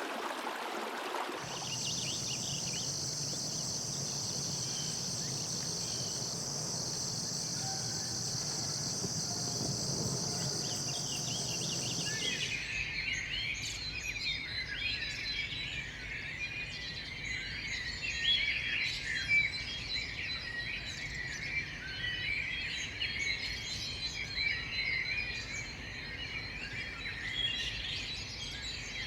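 Tropical rainforest ambience. For about the first twelve seconds, insects hold a steady high-pitched drone over a low hum. Then the sound changes abruptly to a busy chorus of chirping birds and insects.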